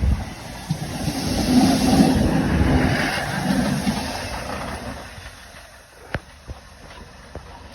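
Local train passing, its rumble peaking about two seconds in and then fading away over the next few seconds, followed by a few sharp clicks.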